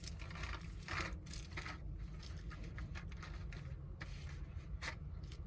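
Handling noise from a camp stove and a box of matches being set up: short scrapes and rubs with a few sharp clicks, over a steady low rumble.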